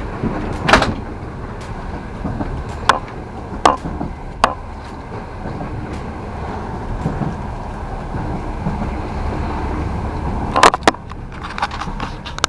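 Passenger train running, heard from inside the carriage: a steady low rumble with sharp, irregular clicks and knocks, the loudest about a second in and again near the end.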